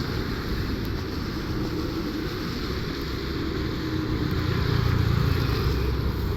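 Road traffic: a motor vehicle passes, its rumble swelling about four to five seconds in, over a steady hiss.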